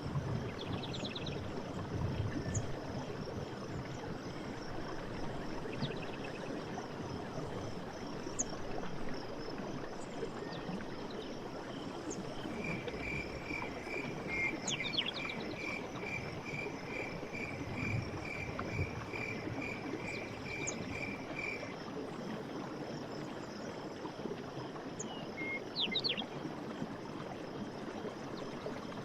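Night forest ambience: frogs and insects calling over a steady rushing background. Midway, one caller repeats an evenly spaced high note for about nine seconds, and short high trills break in now and then.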